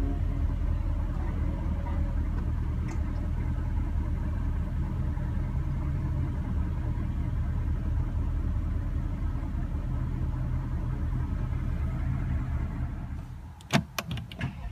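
2016 Porsche Panamera Turbo's 4.8-litre twin-turbo V8 idling steadily just after start-up. Near the end the engine sound stops and a few sharp clicks follow.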